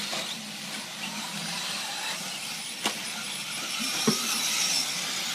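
Electric 4WD radio-controlled short course trucks racing, their motors whining at a high pitch over a steady haze of track noise, with a sharp click about three seconds in.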